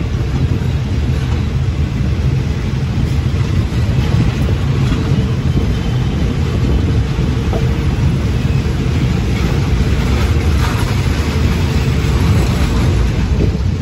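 Two passenger trains passing close alongside: a steady loud rumble of steel wheels on rail and wind rushing across the microphone held out a carriage window.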